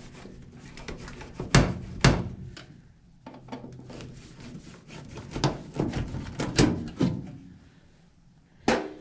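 Knocks and clicks from hands working on a furnace: two loud knocks about a second and a half and two seconds in, a run of clicks and rattles a little past halfway, and one more knock near the end.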